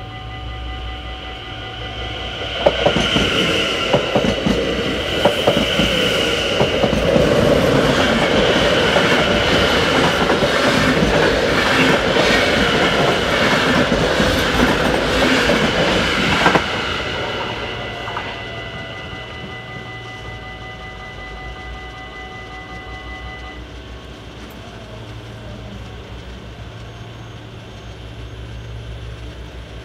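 An NS electric passenger train passes a level crossing at speed, loud for about fourteen seconds, its wheels clicking over the rail joints, while the crossing bell rings steadily. The bell stops some seconds after the train has gone.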